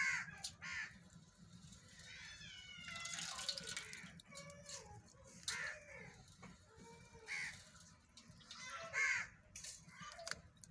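Birds calling: a run of short harsh calls every couple of seconds, with softer chirping and warbling calls in between.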